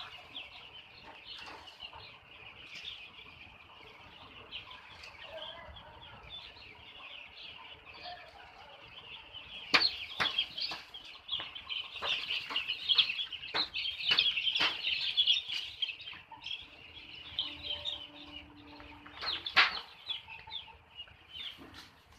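A poultry-farm flock of chickens calling together, a dense chorus of short high cheeps that grows louder about ten seconds in. Scattered sharp knocks sound through the louder stretch.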